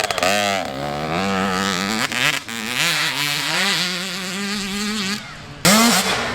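Dirt bike engine revving hard as it accelerates, its pitch climbing and dropping back several times as it shifts up through the gears. Another burst of engine noise starts abruptly near the end.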